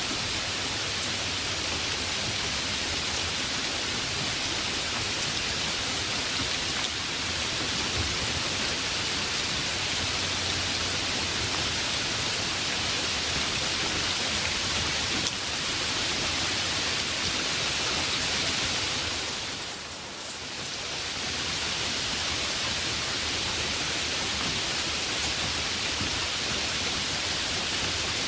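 Heavy rain falling steadily, an even hiss. It briefly dips in level about two-thirds of the way through, then returns.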